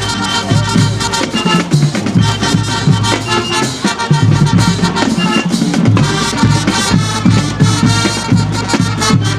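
High school marching band playing loudly, with brass and drums over a steady beat.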